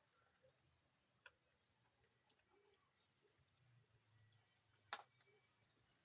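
Near silence with a few faint, scattered ticks, a sharper click about a second in and a louder one near five seconds, over a faint low hum.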